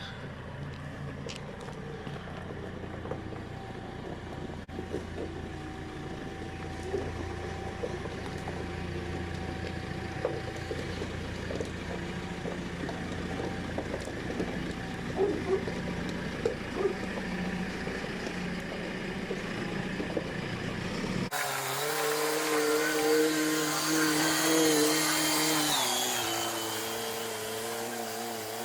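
A vehicle engine running steadily under a low hum, with scattered knocks and clatter. About 21 seconds in it cuts abruptly to a different, higher-pitched machine hum that steps down in pitch near the end.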